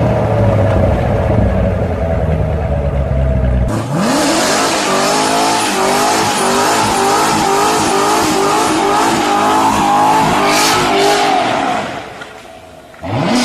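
High-performance car engine under full-throttle acceleration, its pitch climbing. About four seconds in, an abrupt cut leads to another hard run whose engine pitch rises and dips repeatedly. Near the end that run fades and a quick rising rev follows.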